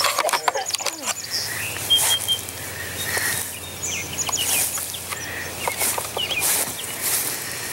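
Birds chirping in short, high calls scattered throughout, over a steady outdoor background with brief bursts of rustling noise, the strongest just after the start.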